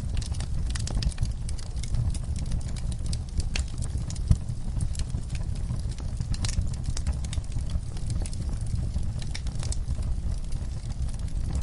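Wood fire crackling in a fireplace: irregular sharp pops and snaps over a steady low rumble, with one louder pop a little over four seconds in.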